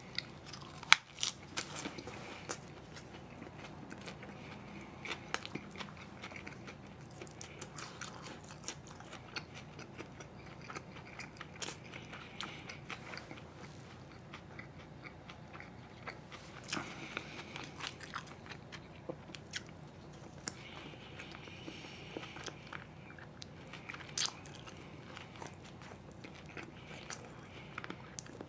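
Close-miked chewing of grilled pork galbi (marinated pork ribs): irregular wet mouth clicks and crunches, the sharpest about a second in.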